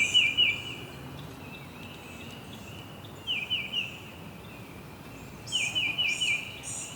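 Songbirds singing: short phrases of quick repeated chirps, heard three times, over a steady background hiss.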